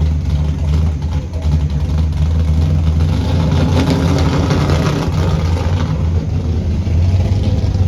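Several pro-street cars' engines running loudly together at idle, a deep steady rumble, swelling somewhat in the middle as the engine sound picks up.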